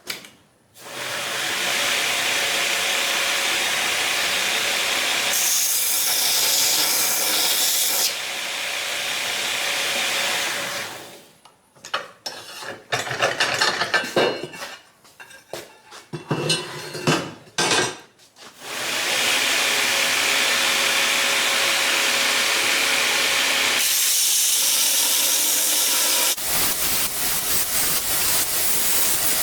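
Metalworking on a forged steel axe head: long stretches of steady hissing rush, broken in the middle by several seconds of irregular scraping and rubbing strokes on the steel, such as brushing scale off the surfaces. The sound changes abruptly several times.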